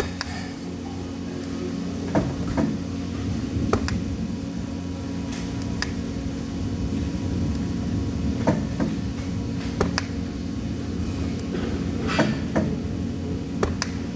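Steady low machine hum in a welding workshop, with irregular sharp clicks and knocks, like metal parts being handled.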